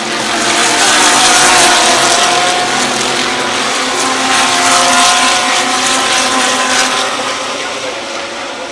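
GT3 race car engines at full throttle as the cars pass at speed, several engine notes layered together. The sound swells about a second in and again around the middle, then eases off near the end.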